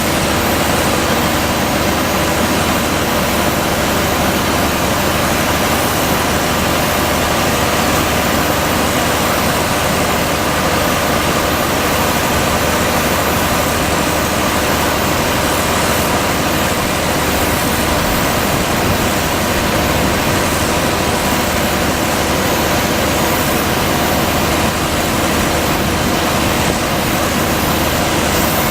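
DS-100 truck-mounted fog cannon running: a steady, unbroken mechanical drone of engine and fan.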